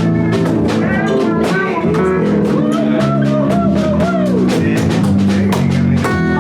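Live band playing a loud, steady song: a drum kit keeps an even beat under guitar, with a bending lead line in the middle.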